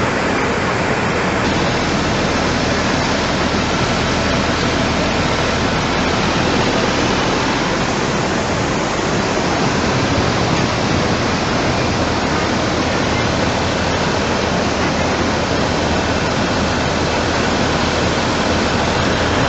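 Floodwater rushing in a steady, loud roar.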